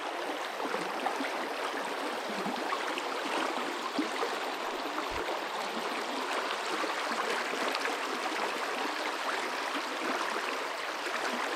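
Steady rushing of river water over stones, an even noise that holds level throughout.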